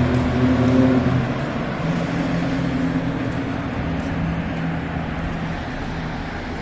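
Garbage truck engine running, its hum higher in the first second and then settling lower and steady.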